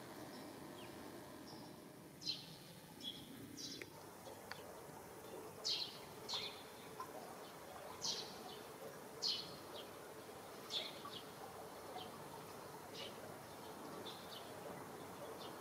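Small birds chirping: short high notes at uneven intervals, a dozen or so, over a faint steady background hum.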